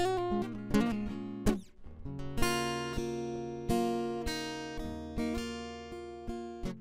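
Acoustic guitar music: strummed chords and picked notes, each chord struck sharply and left to ring out.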